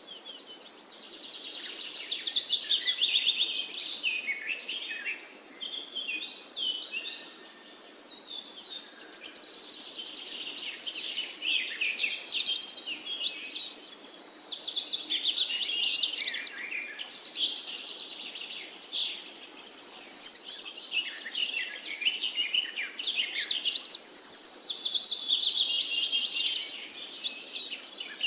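Birdsong: several birds chirping and trilling at once in a dense chorus of quick, high, rising and falling whistles, easing briefly about seven seconds in.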